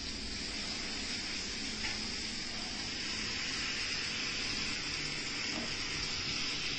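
Onion and spice masala sizzling steadily in a frying pan as potato cubes are dropped into it.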